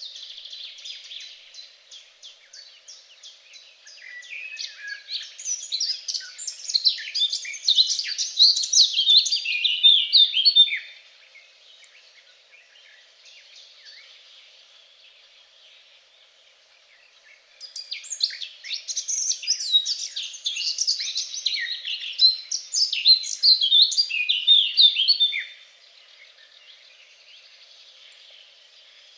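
A songbird singing two long phrases of rapid, varied notes, each about seven seconds, the first starting a few seconds in and the second a few seconds after a pause. Faint high chirping from other birds runs underneath.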